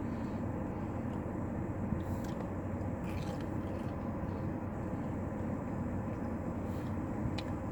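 Steady low hum of a parked car idling, heard from inside the cabin, with a few faint clicks.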